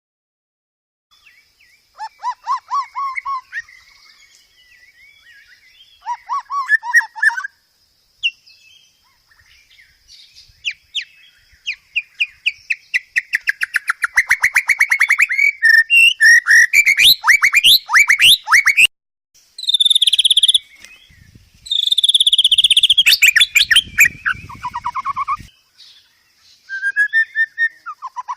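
White-rumped shama singing a long, varied song: short whistled phrases at first, then a near-continuous run of rapid repeated notes, trills and gliding whistles from about ten seconds in.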